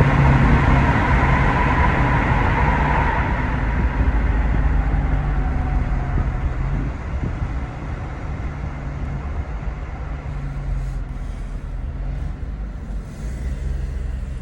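Toyota Tacoma's 3.5-litre V6 through an MBRP 3-inch cat-back exhaust, loud as the truck comes off a hard acceleration, then easing off and settling to a quieter cruise.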